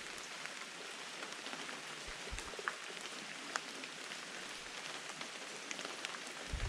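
Steady rain falling, an even hiss with scattered drops ticking, and a couple of low thumps.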